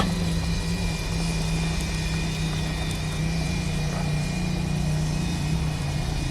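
A motor running steadily, with a low, even hum.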